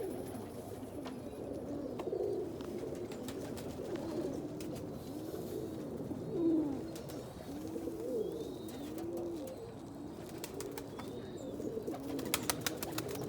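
Several domestic pigeons cooing, low overlapping coos one after another throughout, with a few sharp clicks near the end.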